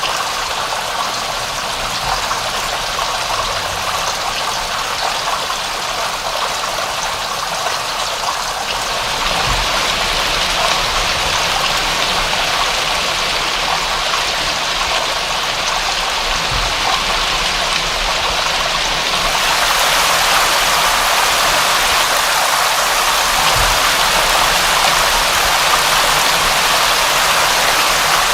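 Steady heavy rain, a dense hiss of falling water that grows fuller and brighter about a third of the way in and again past the middle.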